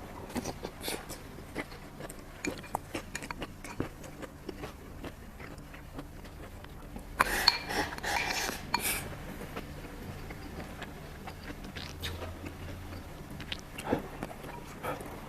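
Kitchen utensils clicking and clattering against dishes or cookware in scattered light taps, with a louder rattling stretch of about two seconds near the middle.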